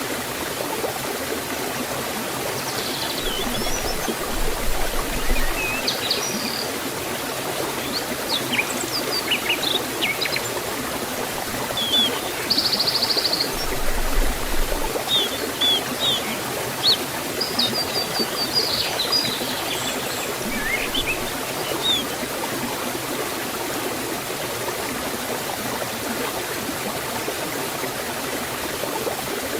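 Steady rush of a forest waterfall and stream, with birds chirping and trilling on and off through the first two-thirds.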